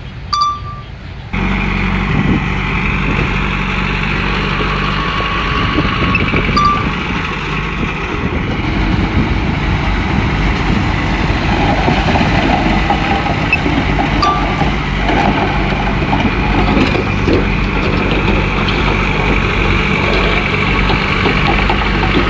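Heavy diesel engine of a Komatsu bulldozer running steadily under load. The engine sound comes in abruptly about a second in, with a few brief high squeaks over it.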